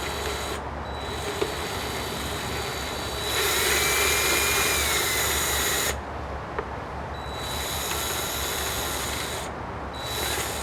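Cordless power drill or driver running in two bursts of a few seconds each, the first louder, with a steady motor whine that drops a little as it stops, backing out small rusted bolts on an outboard's cowling.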